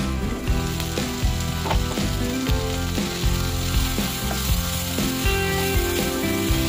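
Broccoli florets and green peas sizzling in hot oil in a frying pan as they are stirred with a wooden spatula, over background music with a steady beat.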